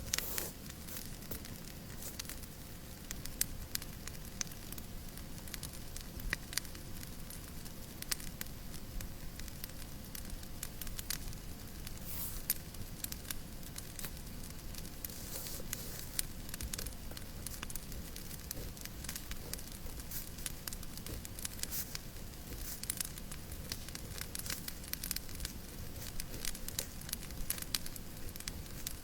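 Wood fire crackling in a fireplace: frequent irregular sharp snaps and pops over a steady hiss.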